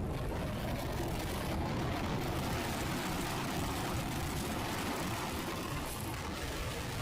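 Motorcycle on the move: steady engine and road noise mixed with wind rushing over the microphone.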